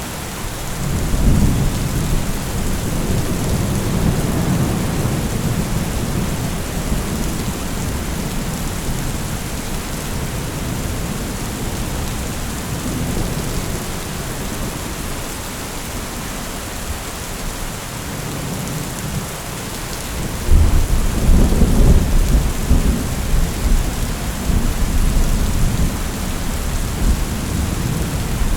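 Steady rain with rolling thunder. A long low rumble builds about a second in and fades over several seconds, and a louder, closer rumble breaks out about twenty seconds in.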